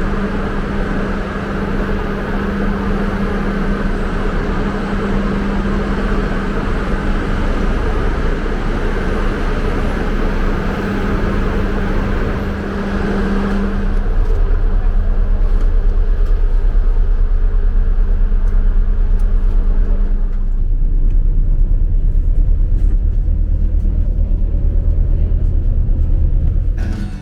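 Road vehicle running: steady engine and road rumble with a low hum. Partway through, the hum stops and the deep rumble grows louder.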